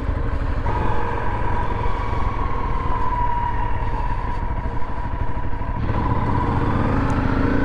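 Honda CRF 250L single-cylinder dirt bike running under way over sand, a continuous engine drone over a low rumble. About six seconds in, the engine note changes and climbs as the bike picks up speed.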